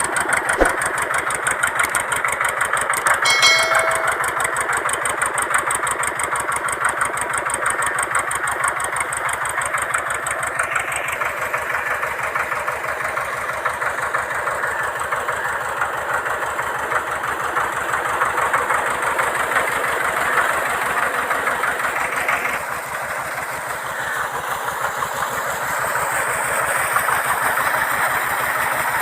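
Tractor diesel engine running steadily under load, driving a PTO water pump, with an even, rapid beat from its firing. A brief high-pitched tone sounds about three seconds in.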